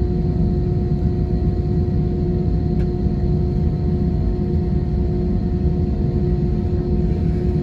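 Steady cabin rumble of an Airbus A320 with its engines running, with a constant low hum over it.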